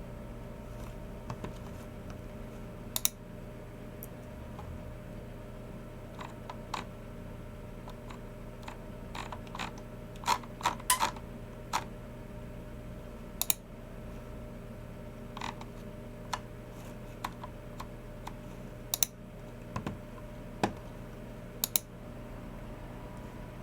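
Sparse, irregular clicks from a Logitech MX Keys Mini keyboard's low-profile keys and a Logitech G304 mouse's buttons, with a short flurry of keystrokes about ten seconds in. A steady low hum runs underneath.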